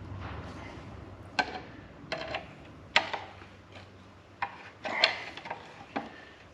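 A few irregular metallic knocks and clinks, about six in all, from engine parts and tools being handled and worked loose during an engine strip-down.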